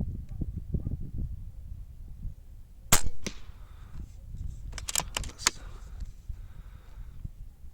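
A 6.35 mm PCP air rifle with a moderator fires once, a sharp crack about three seconds in, followed by a fainter snap. About two seconds later comes a quick run of sharp mechanical clicks, typical of the front cocking lever being worked for the next shot, with wind buffeting the microphone throughout.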